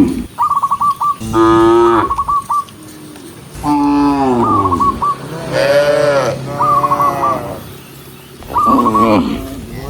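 Cattle mooing: four long, loud moos in turn. Between them come short runs of quick, high chirping notes.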